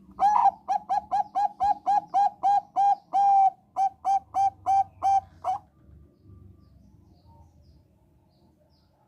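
Zebra dove (Thai-bred 'Bangkok' perkutut) singing: a quick run of about fifteen short, clear coos, two to three a second, with one note held a little longer in the middle. The song stops about five and a half seconds in.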